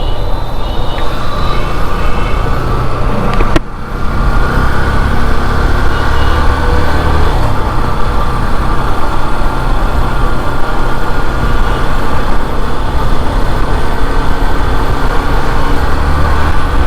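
Riding a Yamaha FZS motorcycle: wind rushing over the microphone and road noise, with the engine running underneath. The noise drops out briefly about three and a half seconds in.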